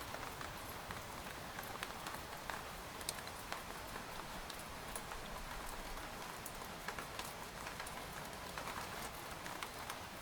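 Steady rain falling on a tent, a constant hiss with scattered sharper drop taps on the fabric.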